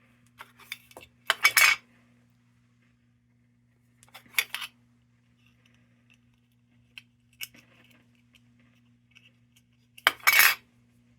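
Small metal parts and hand tools clinking and clattering on a workbench in three short bursts: about a second and a half in, again around four and a half seconds in, and near the end, with a few light ticks between. A faint steady electrical hum runs underneath.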